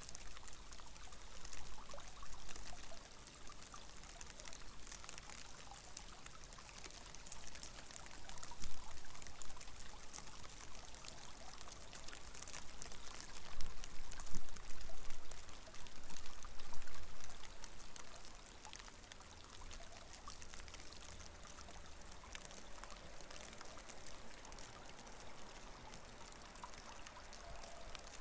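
Rain falling steadily, a dense patter of drops, growing louder for several seconds midway before easing back.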